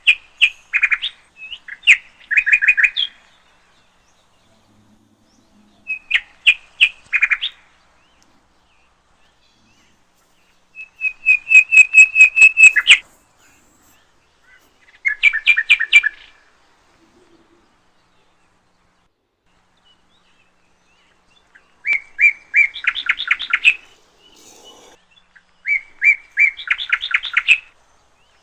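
A small bird singing in six bouts of rapid repeated chirping notes, each bout a second or two long, with silent pauses between them. The loudest bout comes about halfway through.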